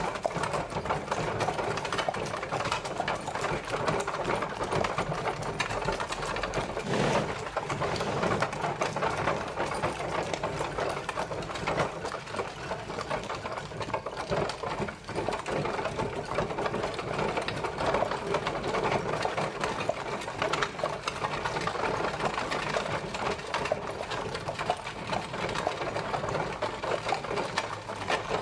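Horse-drawn carriage travelling: a steady, dense rattling clatter of the moving carriage, made of many rapid fine clicks.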